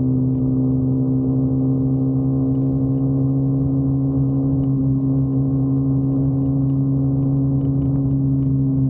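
Motorcycle engine running at a steady cruising speed, its note holding one even pitch.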